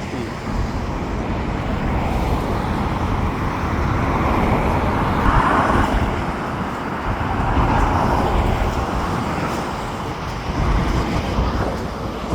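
Road traffic going by, a steady rumble that swells as vehicles pass about midway.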